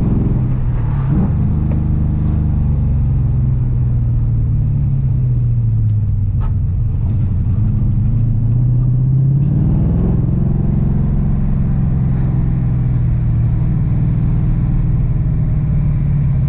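LS V8 engine of an LS-swapped BMW E46 running under way, heard from inside the car: a steady low engine note whose pitch drops in the first second, sags slowly, then climbs again about ten seconds in and holds.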